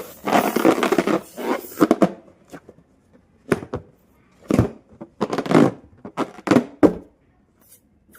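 Rubbing and rustling of a rubber balloon being handled, in irregular noisy bursts with short pauses and no steady pitch.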